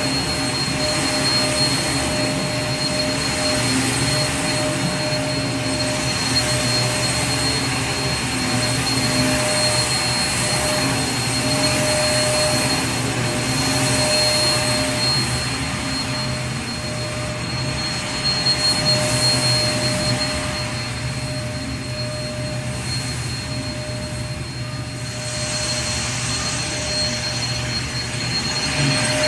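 Vacuum cleaner running steadily: a continuous rush of air with a steady whine over it, the level easing slightly past the middle and coming back up near the end.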